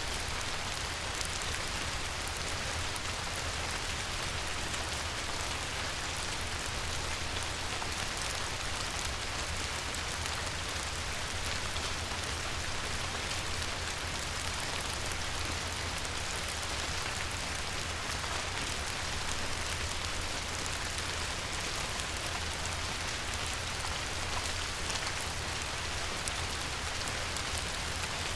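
Light rain falling steadily on a river, a dense even patter of drops on the water, with a faint low rumble underneath.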